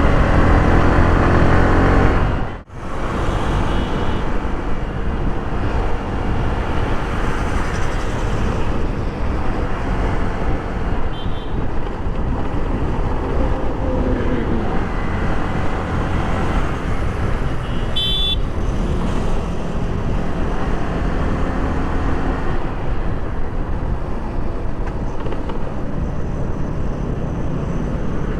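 Riding noise from a Yamaha R15 V3 motorcycle on the road: steady wind rush over the microphone mixed with engine and traffic noise. The sound drops out for a moment near the start, and a short horn toot sounds a little past halfway.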